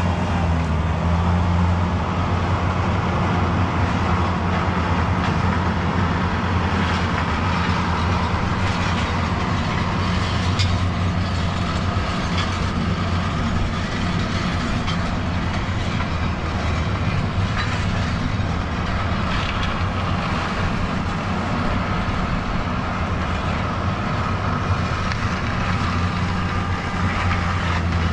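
A train passing by, its wagons rolling steadily along the track with a continuous low rumble and faint wheel clicks.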